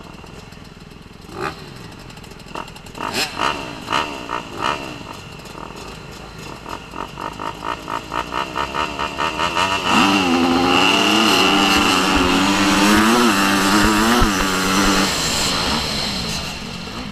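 Off-road motocross motorcycle engines revving: short throttle blips that come faster and faster, then about ten seconds in a loud run under throttle with the pitch rising and falling, easing off near the end.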